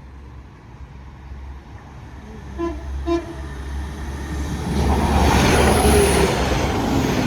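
A West Midlands Railway Class 196 diesel multiple unit sounds two short toots on its horn, then passes the level crossing with a loud rising rush of engine and wheel noise that builds from about halfway through.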